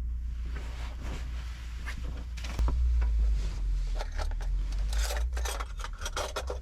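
Rustling, scraping and clicking of food containers and packaging being handled and opened, busiest in the second half, over a low steady hum.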